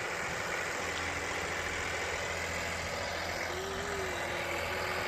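Small excavator's diesel engine running steadily, with a faint brief whine near the end.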